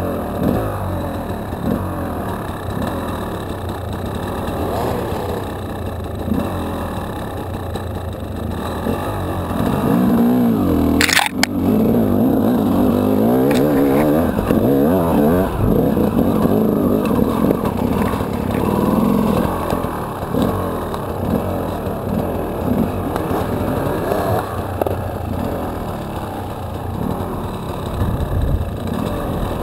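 Enduro dirt bike engine running and revving up and down as it is ridden over rough forest ground, loudest in the middle. A single sharp knock about eleven seconds in.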